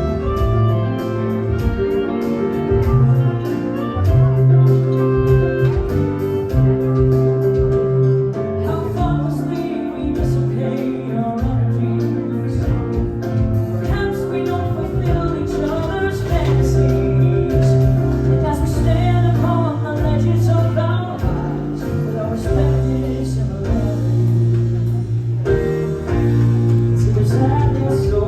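Live band music with a steady beat and a strong bass line; a wavering lead melody comes in over it about nine seconds in.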